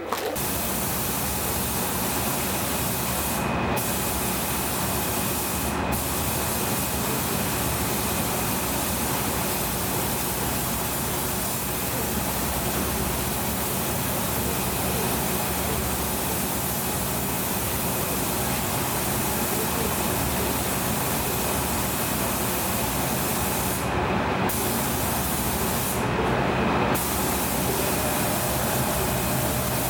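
Compressed-air spray gun hissing steadily as surfacer is sprayed onto the car's body parts. The hiss drops out briefly four times: twice early on and twice near the end.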